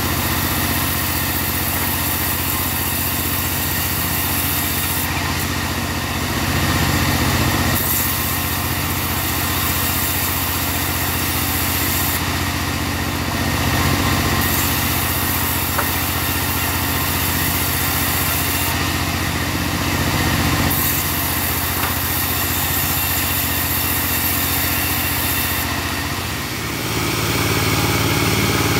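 Mobile bandsaw sawmill running with a steady engine sound, swelling briefly about every six to seven seconds.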